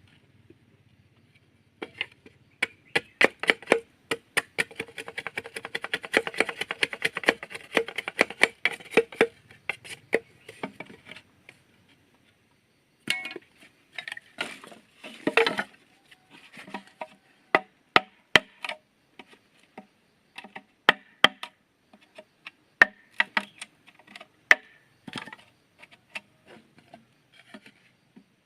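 A tool striking wood with sharp knocks: a fast run of blows for about the first ten seconds, then, after a short pause, single strokes roughly once a second.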